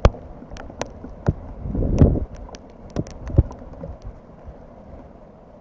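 Wind gusting on the microphone in low rumbles, with many sharp taps and clicks at irregular intervals.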